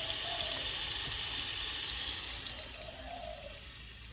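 Water rushing with a steady hiss, fading away over the last couple of seconds.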